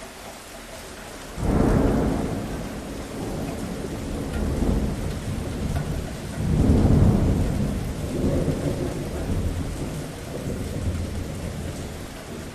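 Steady rain with rolling thunder. A low peal breaks in suddenly about a second and a half in and a second one about six seconds in, each rumbling on and slowly dying away.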